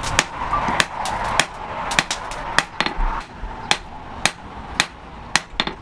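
Blacksmith's hand hammer striking metal on an anvil in a steady rhythm, about two blows a second, each with a short metallic ring.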